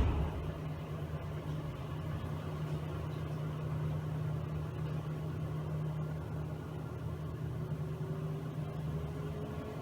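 Miele W1 front-loading washing machine running with a steady low motor hum. A thump comes right at the start and dies away quickly, and a faint tone rises slowly near the end.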